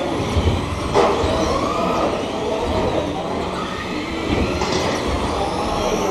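Several radio-controlled racing trucks' motors whining together, their pitches rising and falling as the trucks speed up and slow down, over a steady rush of tyres and track noise.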